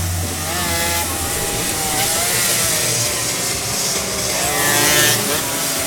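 Car engines running and revving, their pitch rising and falling.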